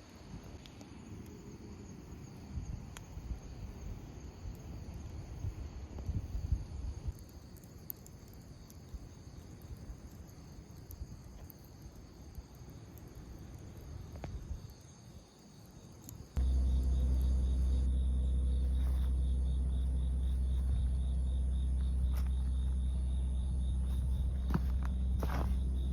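Crickets chirring steadily over a low outdoor rumble. About two-thirds of the way through, the sound cuts abruptly to a loud, steady low hum.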